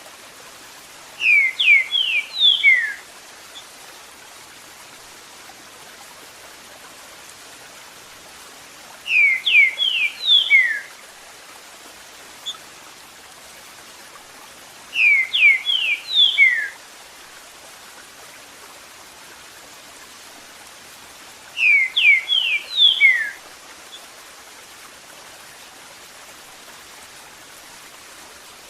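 Green-winged saltator (trinca-ferro) singing its "Eu sou terrível" song: four short phrases of several clear, quick whistled notes, each phrase under two seconds and six to seven seconds apart. Running water hisses steadily underneath.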